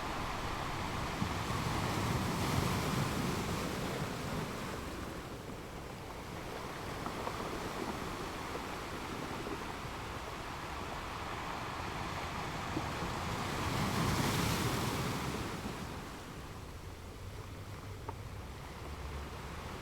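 Ocean waves washing in as a steady rush. Two larger swells build and fall away, one about two seconds in and a louder one about fourteen seconds in.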